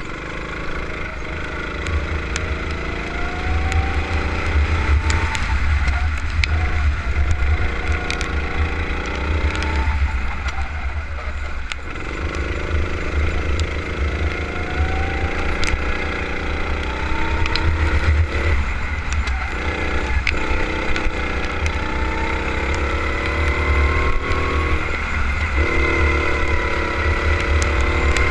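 Go-kart engine at racing pace, its pitch climbing steadily through each acceleration and dropping away when the driver lifts off for a corner, about half a dozen times, over a constant heavy low rumble.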